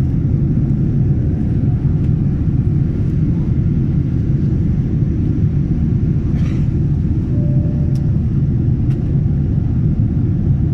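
Steady low rumble of engine and airflow noise inside a jet airliner's cabin.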